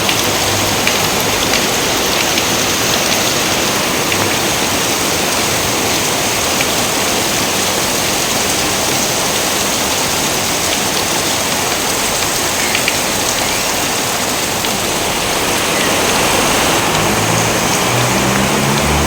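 Steady rain falling as an even, dense hiss, with a low rumble coming in near the end.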